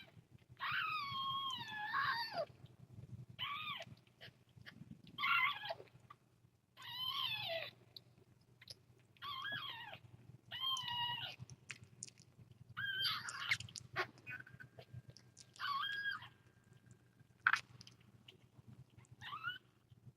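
A young kitten meowing over and over while being bottle-fed, about ten short high calls that bend up and down in pitch with short gaps between them.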